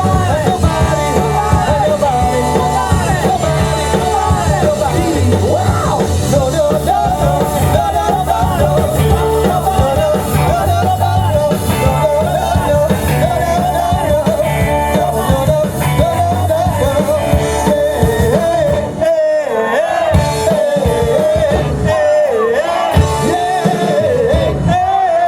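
Live rock band playing with a lead singer. About three-quarters of the way through, the bass and drums mostly drop out, leaving the voice over sparser accompaniment.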